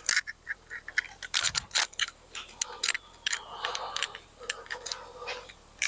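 Irregular metallic clicks and ticks of hand tools and bolts being worked on an engine's timing cover, with no steady rhythm.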